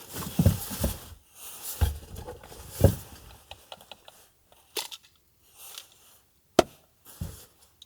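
Close-up handling noises: rustling and crinkling with a few soft knocks, and one sharp click near the end.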